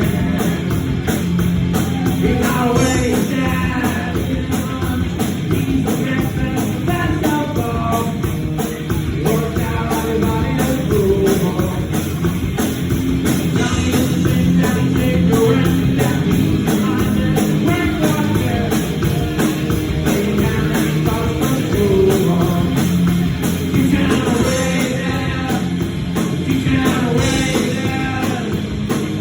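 Rock song with loud guitars, drums and sung vocals, a band's demo recording.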